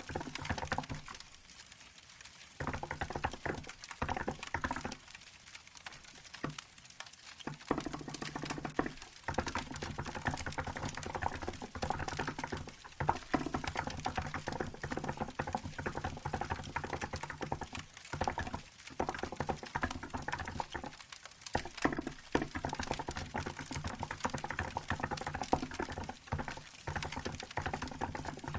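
Continuous typing on a Hansung GK868B mechanical keyboard with milk keycaps: dense runs of key clicks with short pauses, over a crackling wood-fire sound.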